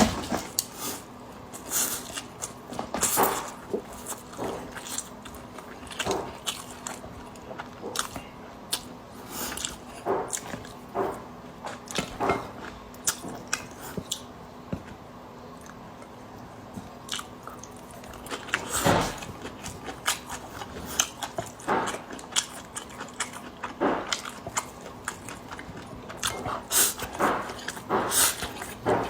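Close-up eating sounds of a person chewing braised noodles: wet chewing and sharp lip smacks at irregular intervals.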